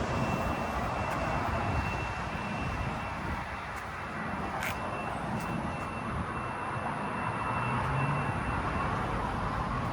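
Steady outdoor background rumble and hiss, with a faint steady high tone and a single sharp click about five seconds in.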